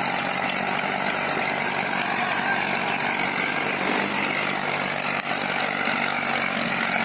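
Eicher tractor's diesel engine running steadily.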